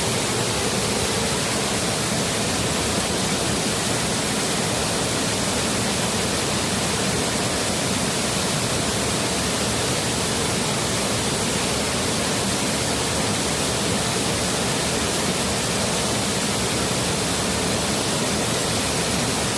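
Forest stream and small waterfall: a steady, even rush of running water.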